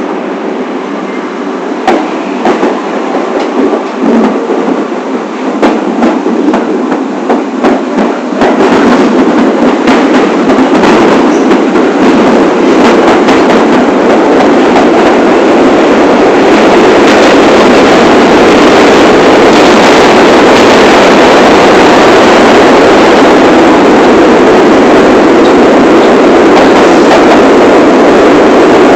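New York City Subway train running on the rails, heard from inside the car: rapid clicks and clatter over a rumble for the first several seconds, then a steady loud roar that builds from about eight seconds in.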